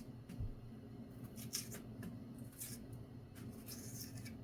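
Faint, scattered scraping and clicking of hands and a utensil working on food.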